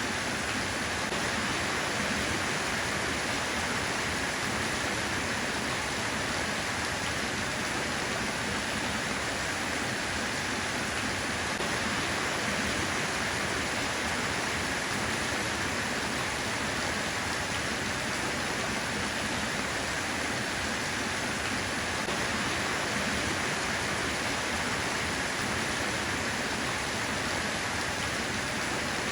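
Steady rain falling: an even, unbroken hiss that keeps the same level throughout.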